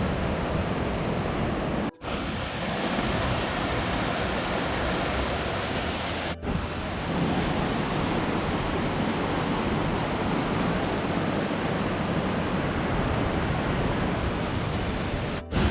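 Steady rush of fast-flowing creek water over rocky cascades, broken by three brief dropouts.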